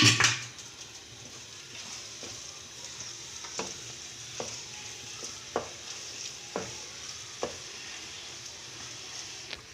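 Minced meat frying in ghee in a non-stick wok, sizzling steadily while a spatula stirs and scrapes it. There is a loud knock of the spatula on the pan at the start, then light knocks about once a second.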